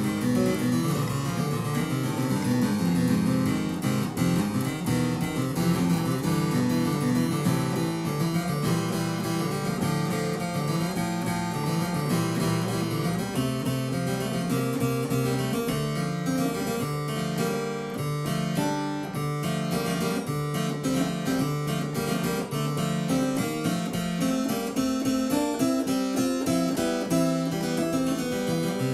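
Harpsichord playing a continuous stream of quick plucked notes over a low bass line, with no pause.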